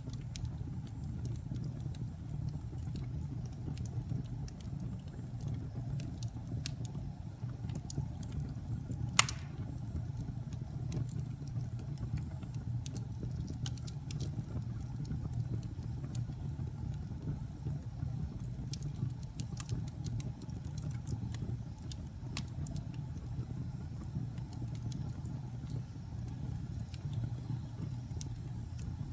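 Wood fire burning in a fireplace: scattered small crackles over a steady low rumble, with one loud pop about nine seconds in.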